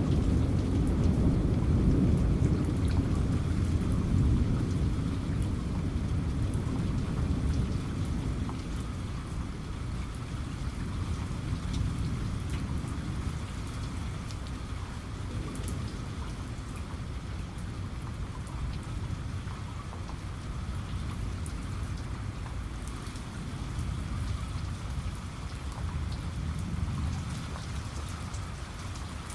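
Steady heavy rain with a roll of thunder that rumbles low at the start and fades away over the first several seconds.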